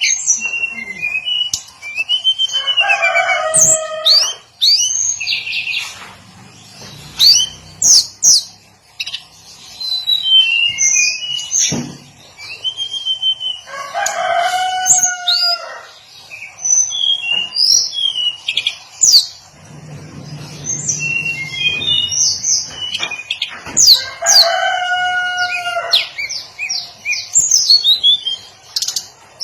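Hill blue flycatcher singing: quick, varied high chirps and whistled phrases in short bursts. A longer, lower call with several stacked tones comes three times, about eleven seconds apart.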